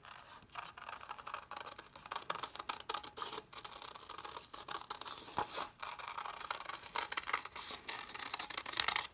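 Scissors cutting through folded construction paper in many short, irregular snips, with the paper rustling as it is turned.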